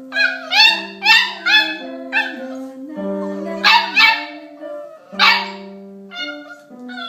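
A Shar Pei–shepherd mix puppy howling along to piano playing: a string of short, rising, yelping howls over held piano notes.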